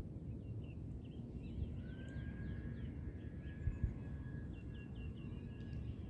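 Birds chirping in quick runs of short, high notes, some in fast evenly spaced series, over a steady low outdoor rumble. A thin steady high tone comes in about two seconds in, and two soft low knocks come just past the middle.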